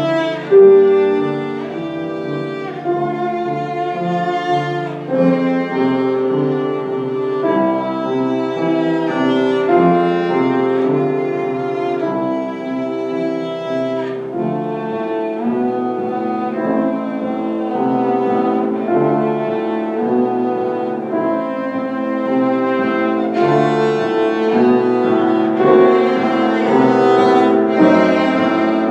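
Live classical music: a bowed string instrument playing a sustained melody, with piano accompaniment.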